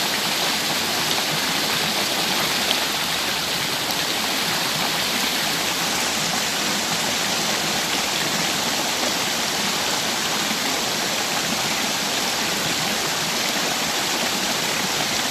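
Small waterfall: water falling and splashing in a steady, even rush with no breaks.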